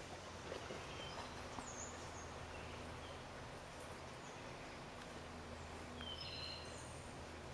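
Faint outdoor background hiss with a few brief, high bird chirps, about two seconds in and again near the end.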